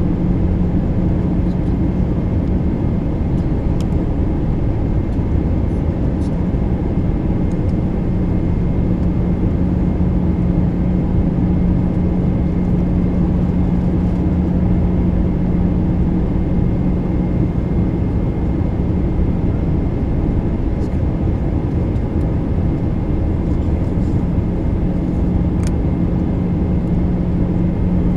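Steady cabin noise inside an Airbus A319 airliner in flight: engine drone and rushing airflow at an even level, with a constant low hum.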